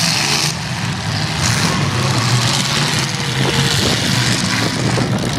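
Demolition derby car engines running and revving in a loud, steady din.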